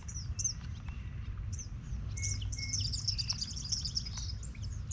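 Small birds chirping: scattered short high chirps, with a quick run of rapid high notes between about two and four seconds in, over a low steady rumble.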